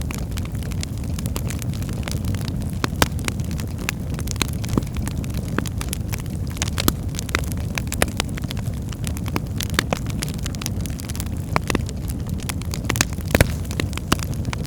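Birchwood fire burning in a hearth: a steady low rush of flames with irregular sharp crackles and pops, a few louder snaps among them.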